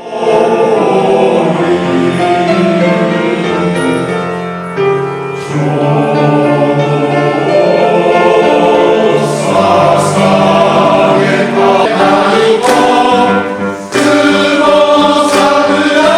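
Male voice choir singing in harmony, holding long chords.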